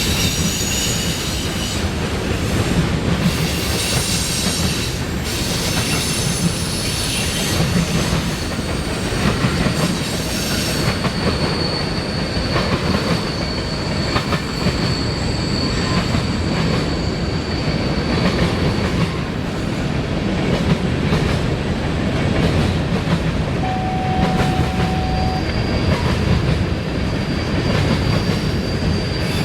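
CSX freight train's cars rolling past with a steady rumble and clickety-clack of wheels over the rail joints. A thin, high wheel squeal comes and goes, about a third of the way in and again near the end.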